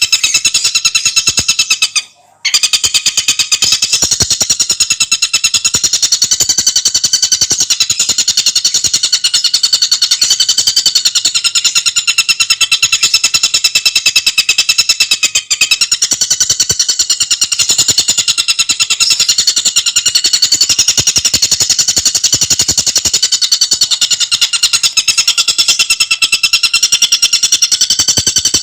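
Tengkek buto bird singing a fast, unbroken chattering trill of rapid high notes, with one short break about two seconds in.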